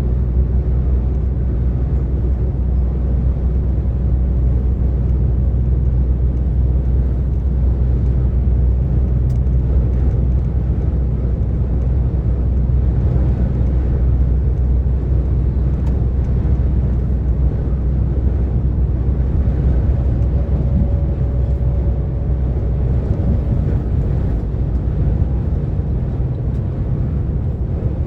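DAF XF 460 truck cruising on the motorway: a steady low drone of its diesel engine mixed with road noise.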